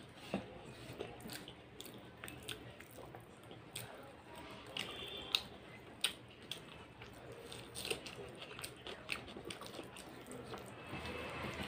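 Quiet, close-miked chewing and mouth sounds of someone eating rice and fish by hand: irregular soft smacks and clicks, mixed with fingers squishing and mashing rice on a metal plate.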